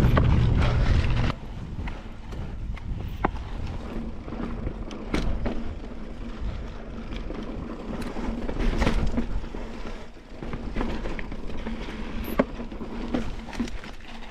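Mountain bike ridden over slickrock: tyres rolling on the rock with scattered knocks and rattles from the bike. A heavy low rumble of wind on the microphone for about the first second.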